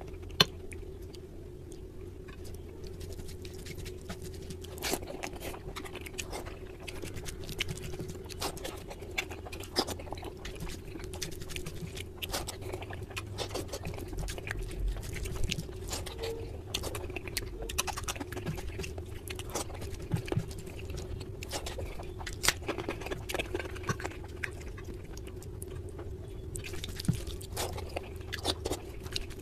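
Close-up mouth sounds of a person chewing rice and chicken curry eaten by hand: many small wet clicks and smacks, with a steady low hum underneath.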